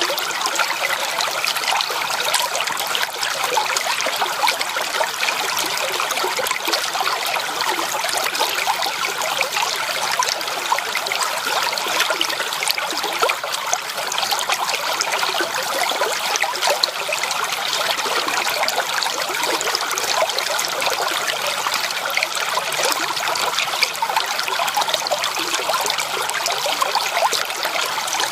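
Shallow creek water trickling and babbling over stones, a steady dense patter of small splashes.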